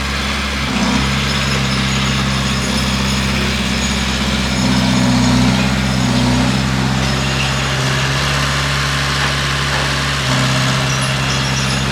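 Bulldozer's diesel engine running steadily, growing louder for a couple of seconds in the middle. Its note changes slightly near the end.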